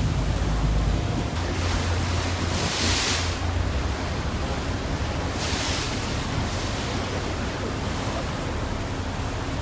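Sea water rushing and wind buffeting the microphone aboard a large sightseeing boat, over a low steady engine hum. Two louder hissing swells come about three and six seconds in.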